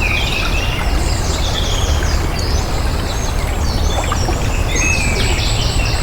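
Flowing water, a steady rushing, with several small birds chirping and trilling over it.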